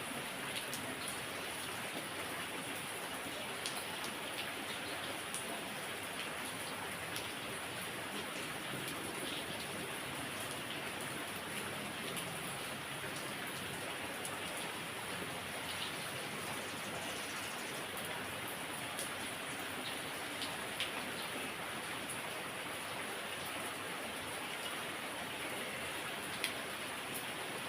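Heavy rain falling steadily, with scattered sharper drop ticks standing out from the even hiss.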